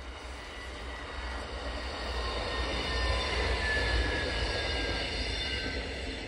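A GKB diesel multiple unit passes by, growing louder to a peak about four seconds in and then fading as it moves away. A faint whine drops slightly in pitch as it goes past.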